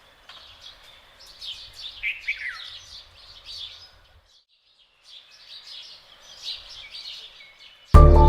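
Small birds chirping and twittering, many short high calls, some falling in pitch. The birdsong drops out for about a second halfway through, and loud music comes in just before the end.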